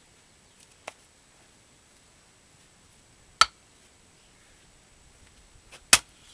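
Axe striking a dried larch firewood round: two hard, sharp chops about two and a half seconds apart, after a lighter knock about a second in.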